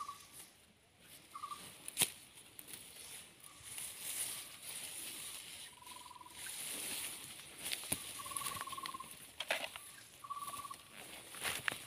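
A bird's short calls at one steady pitch, some trilled, repeated every second or two, with a few sharp clicks among the dry litter.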